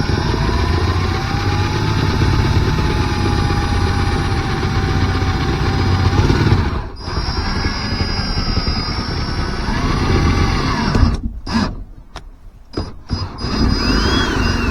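Cordless power drill running under load, drilling through a car's floor, its motor whine wavering as the bit bites. It stops about seven seconds in, runs again for a few seconds, then gives several short trigger bursts near the end.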